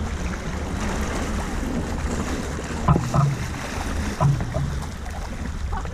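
Beach ambience: a steady low rumble of wind on the microphone over surf, with faint distant voices a few times.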